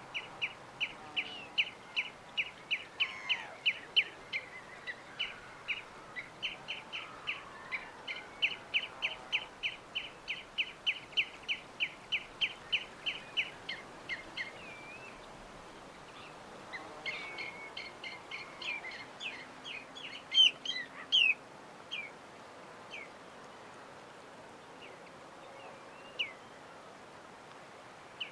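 A bird chirping: a long run of short, evenly repeated notes, about three a second, then after a pause a quicker burst of more varied chirps and a few scattered notes near the end. A faint steady hiss lies underneath.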